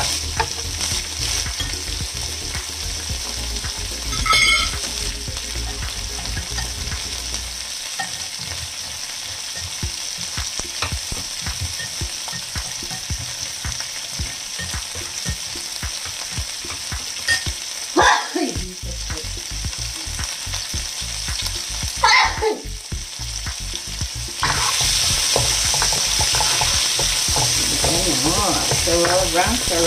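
Vegetarian pork slices and asparagus sizzling in oil in a nonstick wok, with a wooden spatula stirring and scraping the pan a few times. The sizzle grows louder about two-thirds of the way through.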